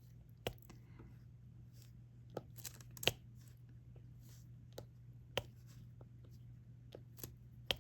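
Irregular small clicks and taps of diamond painting work: a stylus picking drills from the tray and pressing them onto the sticky canvas. Under them runs a steady low hum.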